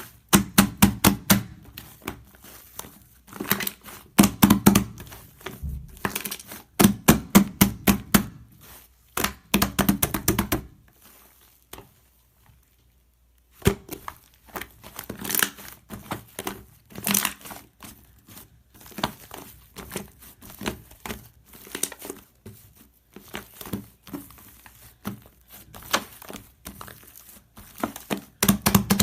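Close-up crinkling and rustling handling noise, dense with quick clicks and crackles, coming in bursts, with a pause of about three seconds midway.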